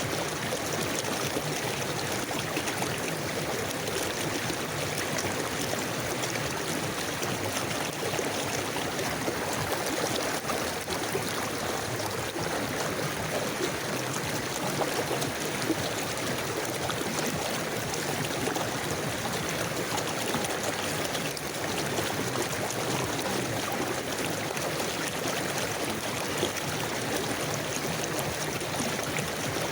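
Steady flow of a forest river, water running and gurgling over stones.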